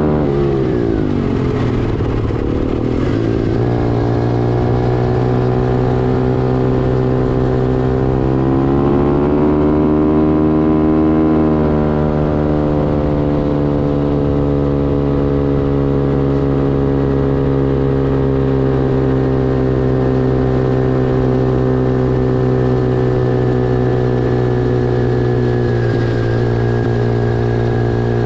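Pit bike engine running close by. Its revs drop at the start, rise and hold for a few seconds about a third of the way in, then settle back to a steady lower speed.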